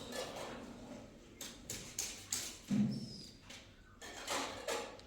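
A series of short knocks and clatters, with one duller thump near the middle.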